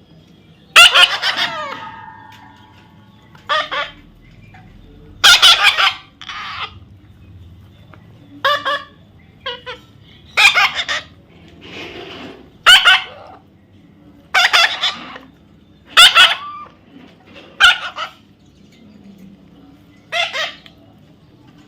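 A parrot squawking over and over: about a dozen short, loud, harsh calls, one every second or two.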